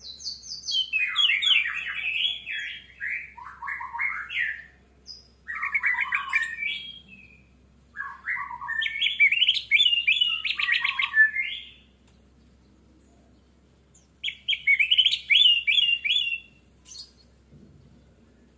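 Orange-headed thrush singing in four loud phrases of rapid, varied whistled notes, with short pauses between them.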